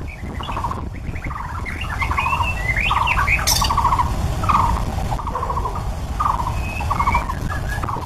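White-rumped shama (murai batu) singing a varied song: rapid rattling notes repeated about twice a second, mixed with whistled slurs and one sharp high note about halfway through. A steady low rumble runs underneath.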